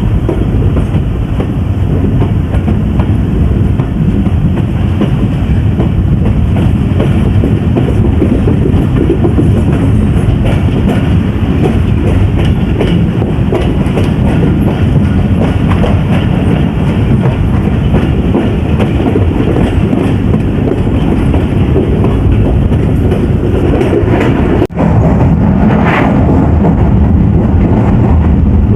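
Pakistan Express passenger train running along the track, its wheels clattering over the rails over a steady, heavy rumble. Near the end the sound breaks off for an instant, then a short higher-pitched sound rises briefly over the rumble.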